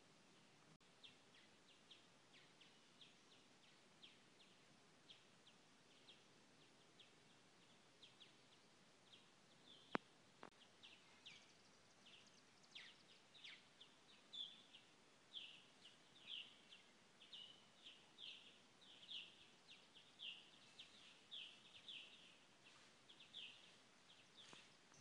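Faint chirping of small birds: short high chirps, about one a second at first, becoming busier and louder from about halfway. A single sharp click, the loudest sound, comes near the middle.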